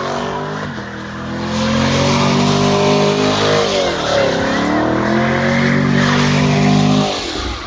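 A car engine held at high revs while its tyres spin and squeal. The revs dip and climb again about four seconds in, then drop off near the end.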